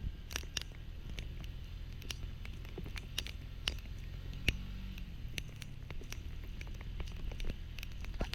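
Raindrops pattering irregularly, in scattered sharp taps with one louder hit about halfway through, over the low steady hum of an idling engine.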